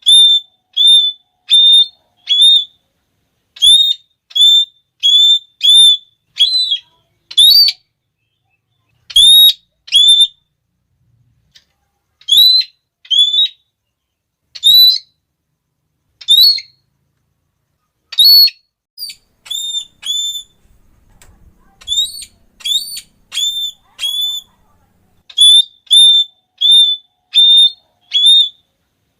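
Red-cheeked parrot calling: a long series of short, shrill notes, mostly about two a second, in runs broken by a few pauses of a second or two.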